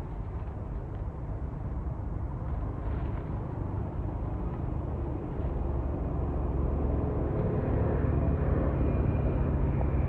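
A motor engine running with a low rumble, growing steadily louder.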